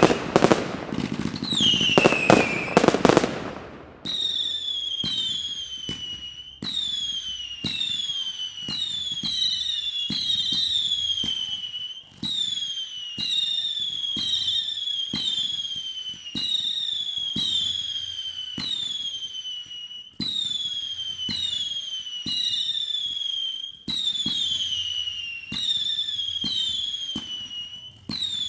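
Fireworks: a loud crackling burst opens, then a long run of whistling shots fired a little faster than one a second. Each shot is a short pop followed by a whistle that falls in pitch, and the whistles overlap one another.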